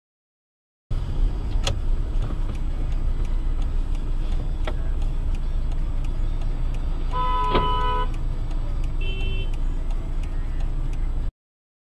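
Steady low road and engine rumble of a moving car, with two sharp clicks early on. A car horn sounds for about a second a little past halfway, then gives a shorter toot. The sound starts and cuts off abruptly.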